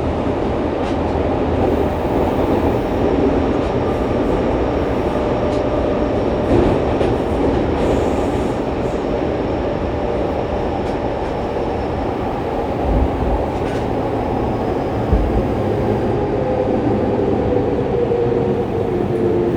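Running noise heard inside a Fukuoka City Subway 2000-series car (set 23, Hitachi late-type GTO-VVVF) travelling at speed through the tunnel: a steady rumble of wheels on rail. Faint gliding motor tones come in near the end.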